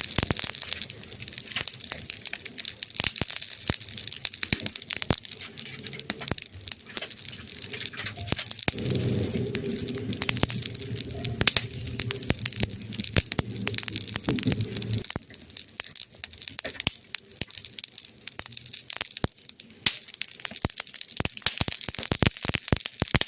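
Burning wood crackling and popping in a fire: many sharp, irregular snaps over a steady hiss. A low hum sounds underneath for about six seconds in the middle.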